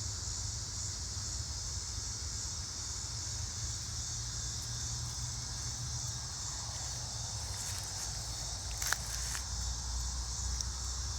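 Insects chirring in a steady, high-pitched chorus over a low rumble, with one sharp click about nine seconds in.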